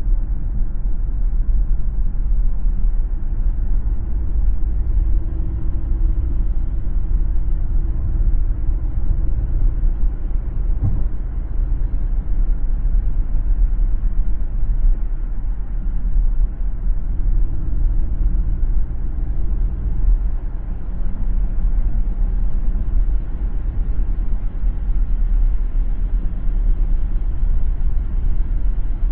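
Car driving on a road: a steady low rumble of tyres and engine, with a brief knock about eleven seconds in.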